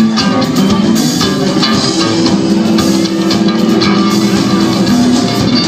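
Live rock band playing an instrumental passage: electric guitar, bass guitar and drum kit.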